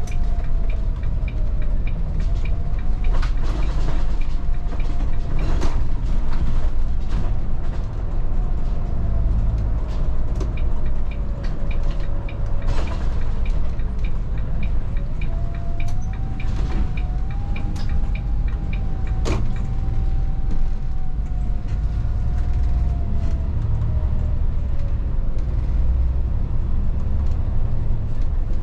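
Cabin sound of a Volvo 8900 12-metre bus on the move: a deep steady engine and road rumble, with a whine that rises and falls as the bus speeds up and slows. Scattered knocks and rattles come through, and there is a light regular ticking through much of it.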